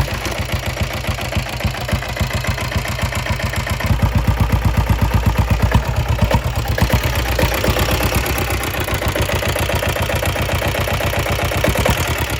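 Sooraj motorcycle's 325cc Lombardini single-cylinder diesel engine running just after a kick start, with a rapid, even diesel knock. It runs louder for about two seconds near the middle, then settles back to a steady idle.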